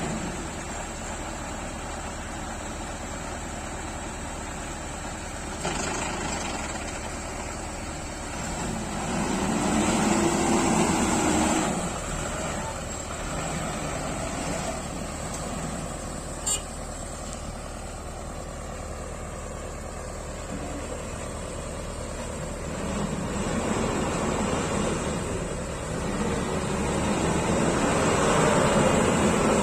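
Heavy vehicle engine, a JCB backhoe or tractor, running steadily and twice rising in pitch and loudness as it is worked: once about a third of the way in and again near the end. A single sharp click about halfway through.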